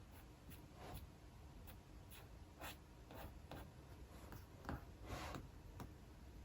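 Faint, irregular taps and short scratches of someone working at a desk, about a dozen in all, with one longer scratch about five seconds in.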